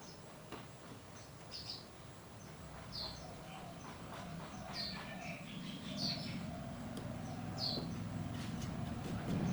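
A bird chirping: short high chirps every one to two seconds, over a low steady rumble that grows louder toward the end.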